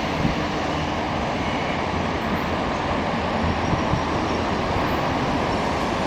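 Semboku Rapid Railway 3000 series electric train pulling out of the station, a steady rumble of wheels on rail and running noise.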